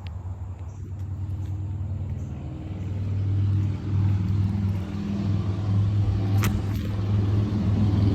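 A car engine running with a steady low hum that gets louder about three seconds in. A short sharp click comes near the end.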